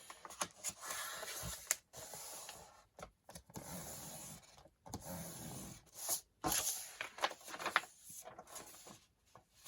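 A sheet of music paper being handled and folded in half, the crease pressed down by hand: a series of dry paper swishes, each about a second long, with light taps and rustles between them.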